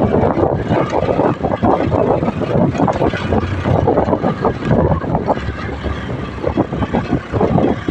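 Motorcycle engine running while the bike is ridden, heard from a bike-mounted camera with wind buffeting the microphone.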